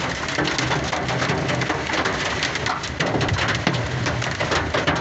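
Hailstones drumming on a truck's cab and windshield: a dense, continuous clatter of hard impacts over the hiss of heavy rain, with a low steady drone beneath.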